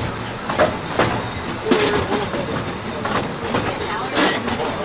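Steam-powered train on the Walt Disney World Railroad rolling along the track, heard from aboard a passenger car. Its wheels clack irregularly over the rail joints over a steady rumble and rattle.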